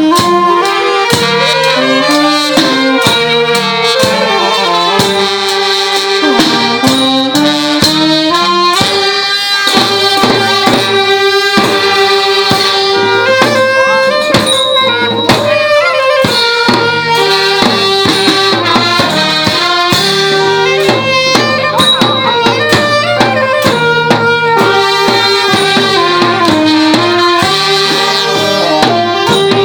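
Thai brass band (trae wong) playing a tune: horns and reeds carry a sustained melody over steady drum and cymbal strokes.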